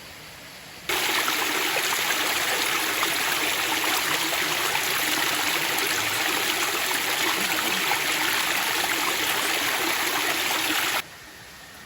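Rushing water running steadily, loud and even, starting suddenly about a second in and cutting off suddenly near the end.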